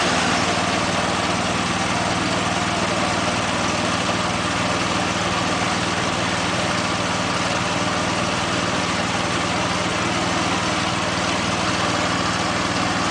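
Boaz mini combine's gas engine running steadily at an even idle, with the thresher disengaged and stopped.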